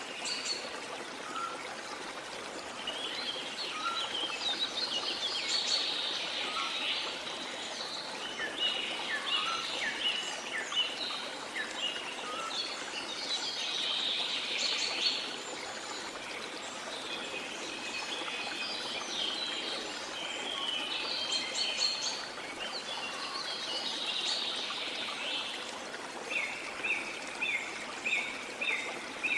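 Small songbirds chirping and twittering over the steady rushing wash of the sea. Near the end one bird repeats a short note about twice a second.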